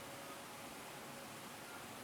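Faint, steady rush of flowing stream water, even and unchanging.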